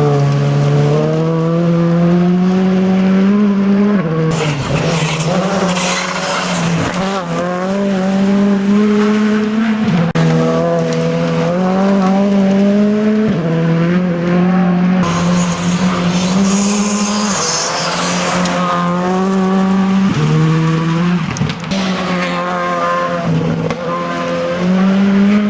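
R5-class rally car engine pulling hard through the gears on gravel. The pitch climbs within each gear and drops at each shift, about half a dozen times, with bursts of hiss and crackle from tyres and gravel.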